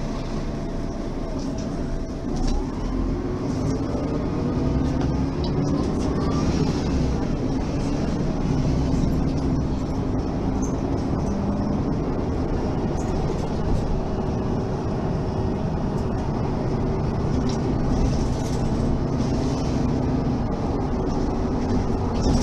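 Mercedes-Benz Citaro facelift city bus's diesel engine and automatic gearbox pulling away, with a whine that rises in pitch over the first few seconds, then running steadily under way.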